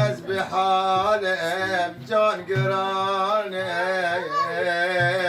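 A man singing a Sufi madih, drawing out long melismatic notes that waver and slide in pitch, over a steady low drone, with a low drum stroke about every two and a half seconds.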